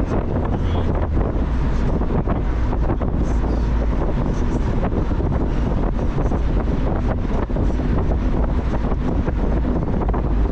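Wind buffeting the microphone over the steady low rumble of a moving car.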